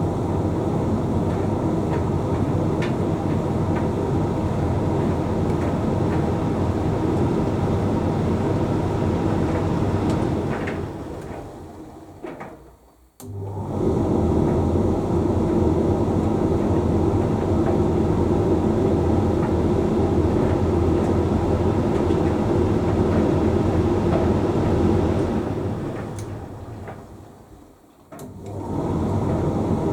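Hoover Link X Care condenser tumble dryer running a drying cycle: a steady hum of motor and tumbling drum. Twice the sound winds down to a stop and then starts up again abruptly, as the drum pauses and changes direction.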